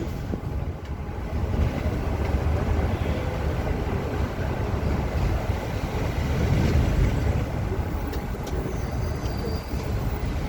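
Bus driven at speed: a steady low rumble of engine and road noise.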